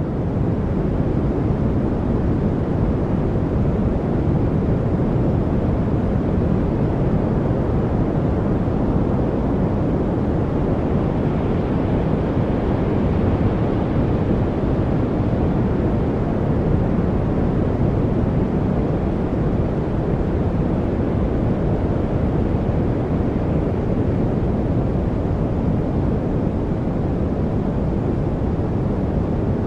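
Steady deep-toned masking noise, an even rumbling hiss weighted toward the low end, with no distinct events in it.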